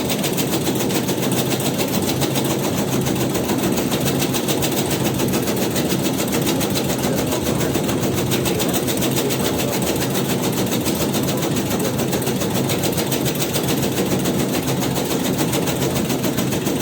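Motorised tobacco-shredding machine running steadily, chopping with a fast, even mechanical rhythm.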